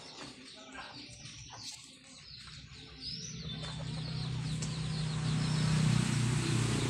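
Birds chirping in short high calls. From about three seconds in, a steady low drone comes up and grows louder.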